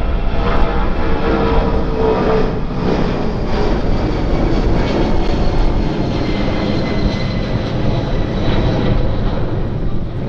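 Airliner engines running loud and steady as an aircraft passes, a dense rushing noise with a faint high whine on top.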